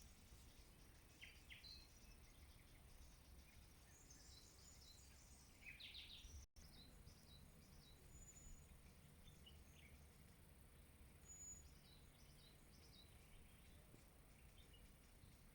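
Faint songbirds chirping and trilling in short, scattered phrases, with a few brief high whistles, over a steady low background hum. The sound drops out for an instant about six and a half seconds in.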